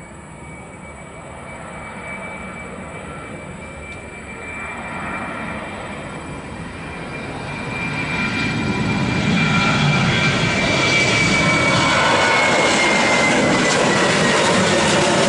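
Airliner's engines growing steadily louder as the plane approaches close by, then holding loud, with a high whine that drops slightly in pitch as it passes.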